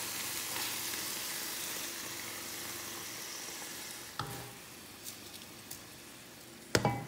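Sambal paste with onions and lemongrass sizzling in a stainless steel wok as it is stirred, the sizzle dying away once the heat has been turned low. A short knock comes about four seconds in, and a louder knock near the end.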